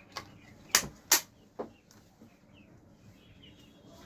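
Four sharp knocks or clicks in quick succession in the first second and a half, then faint birds chirping in the background.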